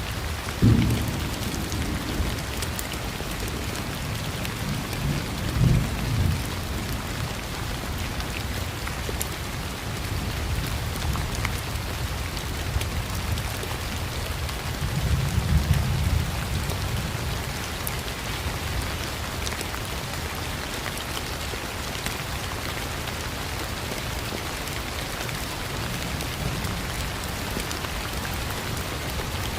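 Steady rain with thunder: a loud low rumble about a second in, more rumbles around five to six seconds in and again around fifteen to sixteen seconds in, under an unbroken hiss of rain.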